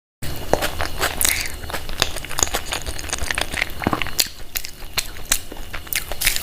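Close-up eating sounds: biting and chewing, with many short crunches and wet mouth clicks. A brief dropout at the very start marks an edit.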